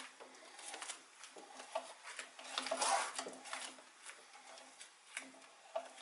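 Irregular light clicks, taps and rattles of metal being handled at a lathe chuck, with a denser cluster about three seconds in.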